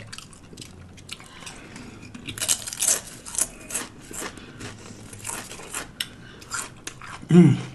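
Close-miked eating of a lettuce-wrapped sub sandwich: crisp bites and chewing with many small crackling clicks. A short hummed voice sound comes near the end.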